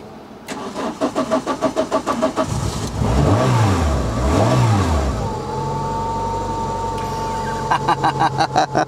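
Renault Clio 172's 2.0-litre four-cylinder engine cranks on the starter for a couple of seconds, catches, is revved twice, and settles into a steady idle with a thin whine over it. It is now running on all four cylinders, its misfire cured by replacing a bad injector and seal.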